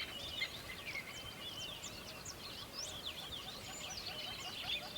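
Many small birds chirping and twittering at once: a dense chorus of quick, overlapping high calls.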